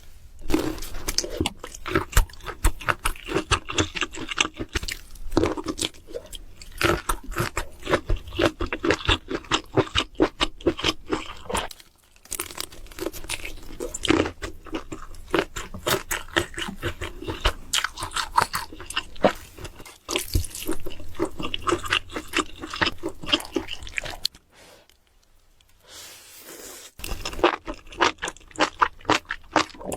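Close-miked chewing with crunching, a rapid run of wet clicks and crunches that goes on in long stretches, broken by short pauses about 12 and 20 seconds in and a longer one near the end.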